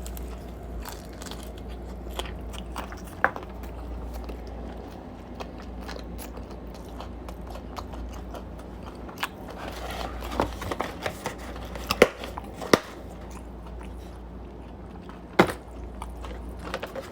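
A person biting and chewing pan-fried chicken close to the microphone: scattered crisp crunches and clicks, with a cluster of louder bites a little past the middle, over a low steady hum.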